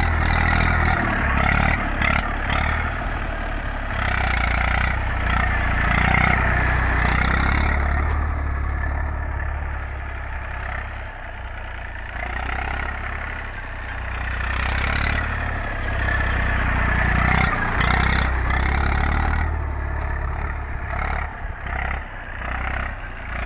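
Eicher 380 tractor's diesel engine running steadily under load, its level slowly rising and falling.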